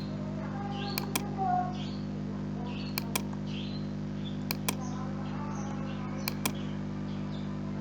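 Computer mouse clicks coming in quick pairs, double-clicks, four times, over a steady low electrical hum.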